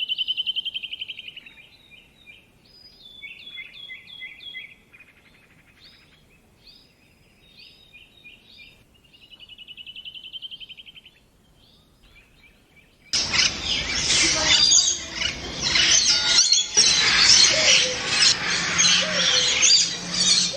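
Tropical songbirds calling: a rapid trill, runs of short falling whistled notes, and a second trill, with quiet gaps between. About two-thirds of the way through, a much louder, dense chorus of many overlapping bird calls cuts in suddenly, with a low cooing note near the end.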